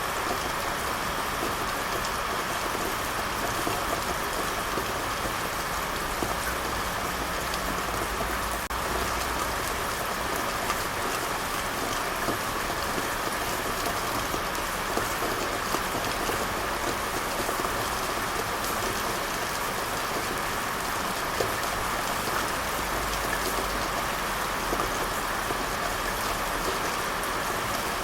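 Steady rain falling, an even dense patter with scattered individual drops ticking on a surface.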